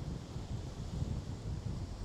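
Sea waves washing over small boulders at the shoreline: a continuous rushing noise with an uneven low rumble, with wind buffeting the microphone.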